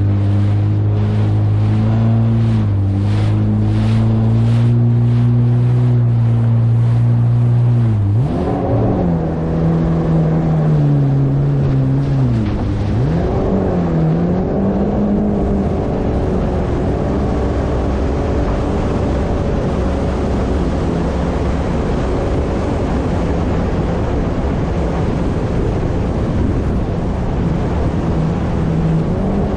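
Yamaha jet ski engine running at a steady speed, then easing off about eight seconds in, its pitch dropping and wavering before it settles into a steady run again. Water and wind rush along with it.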